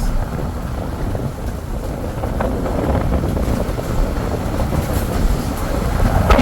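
Steady rumble of a moving car: road and wind noise heard from the moving vehicle.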